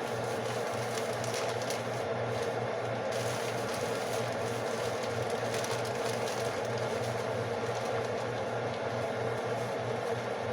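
A steady mechanical hum with hiss, with a low pulsing drone under it, as from a fan or appliance running.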